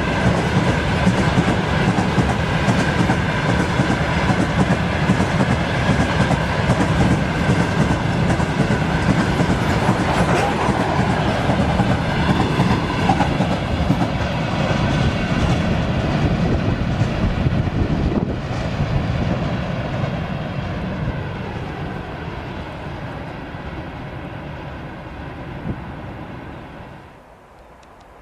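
Freight train wagons rolling past on the rails with the clatter of wheels over the track. The sound is steady, then fades away from about two-thirds of the way through, with a single knock just before it cuts off sharply near the end.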